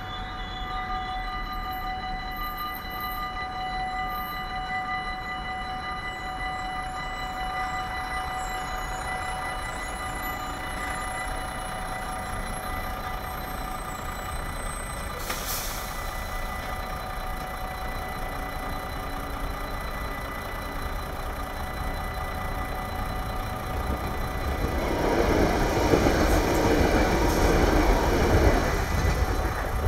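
Dutch level-crossing warning bells ringing steadily, then a train passing through the crossing, loud for about four seconds near the end.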